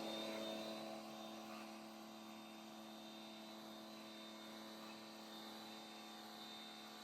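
A faint steady hum with a few even tones; a spray-like hiss fades out over the first second or so.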